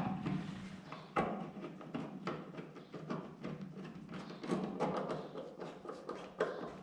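Taillight screws being turned back in to fix the housing to the truck body: a run of irregular small clicks and scrapes of metal and plastic being handled, over a faint steady hum.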